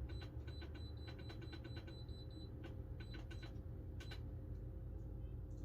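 Rapid clicking with a faint high tone, about six clicks a second for the first two and a half seconds, then a few more spaced out: the buttons of a smoker's digital controller being pressed to step the cooking timer up.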